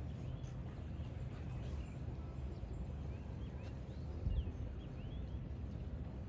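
Small birds chirping in short, quick notes over a steady low rumble outdoors, with a brief low thud about four seconds in.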